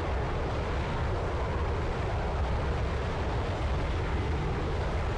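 Jet aircraft noise: a steady low rumble with a broad hiss over it.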